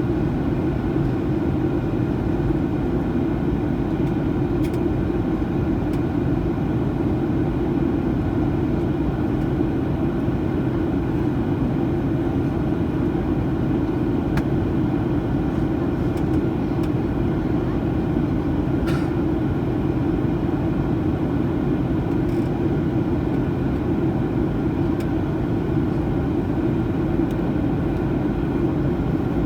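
Steady low rumble inside the cabin of a Boeing 737-900ER in flight: engine and airflow noise heard from a passenger seat, with one faint click about two-thirds of the way through.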